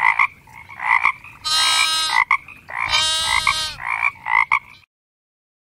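Croaking sound effect: short croaks around two long, buzzy croaks of about a second each, the clip starting and cutting off abruptly.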